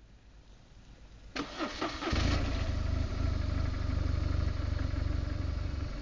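BMW R1200GS Adventure's flat-twin boxer engine being started: the starter cranks briefly about a second and a half in, the engine catches about half a second later and settles into a steady idle.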